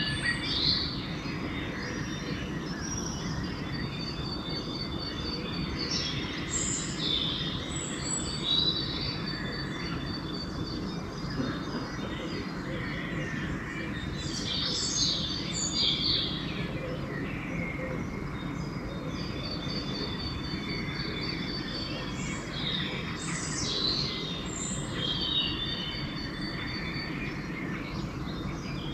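Pre-dawn chorus of several songbirds singing and calling in overlapping bursts, with a rapid, evenly pulsed high trill recurring through it. A steady low background rumble runs underneath.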